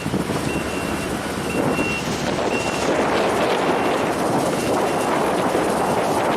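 Heavy construction equipment's backup alarm beeping about once a second, stopping about three seconds in, over the steady running of the machinery, which grows louder after the beeps stop.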